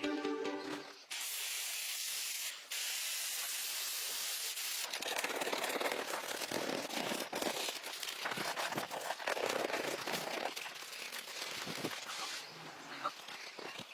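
Steady hissing that starts about a second in, turning rougher and more uneven, with scattered crackles, about five seconds in.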